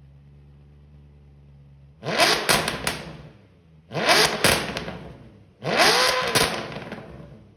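Maserati Quattroporte's 4.2-litre V8 blipped three times from idle through its custom valved exhaust. Each rev rises sharply and falls back to a steady idle, with a few sharp cracks in each.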